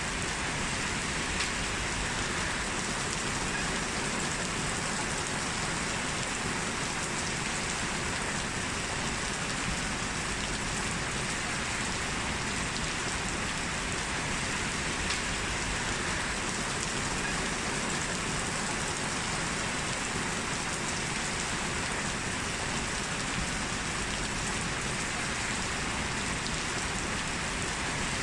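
Heavy rain falling steadily, an even hiss of drops with a few sharper individual drop hits.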